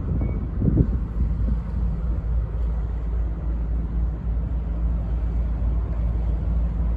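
Steady low engine rumble from the ships being towed out, mixed with wind noise on the microphone.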